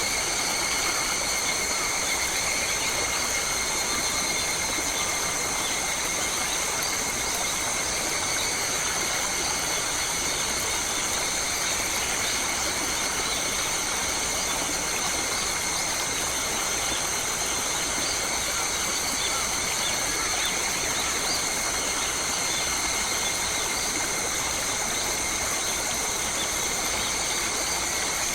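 Steady forest ambience: a constant insect chorus drones in several high pitches over an even hiss, with no change throughout.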